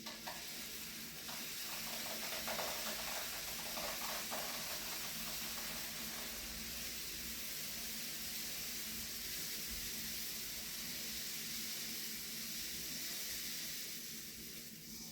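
Dry rice grains pouring into a homemade rain stick tube: a steady hiss of streaming grains, with a few light ticks in the first few seconds, tailing off at the end.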